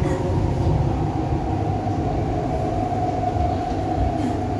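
MTR East Rail line R-train (Hyundai Rotem-built electric multiple unit) running along the line: a steady low rumble from the wheels and running gear, with a steady whine from the traction equipment.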